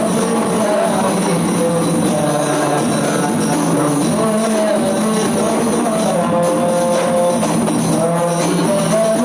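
Rebana frame drum ensemble playing, with a sung melody over the drums.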